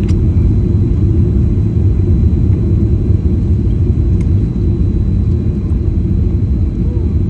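Steady low rumble of a Boeing 737 MAX 8-200 airliner's jet engines on its landing approach.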